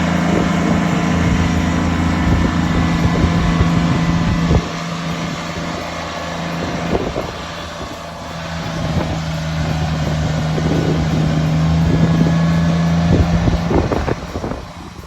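A motor vehicle engine running at a steady speed. It drops away sharply about four and a half seconds in, comes back a couple of seconds later, and fades out near the end.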